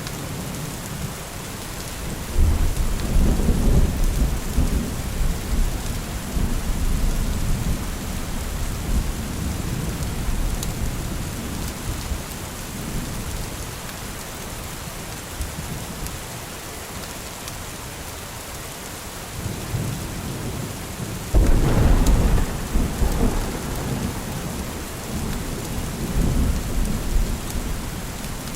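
Steady rain hiss with two peals of thunder. The first rumbles in a couple of seconds in and dies away slowly. The second, louder one breaks sharply about three quarters of the way through and rolls on for several seconds.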